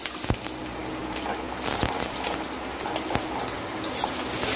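Garlic and sliced onion sizzling in hot oil in a metal wok, with a few sharp taps and scrapes of a spatula stirring them.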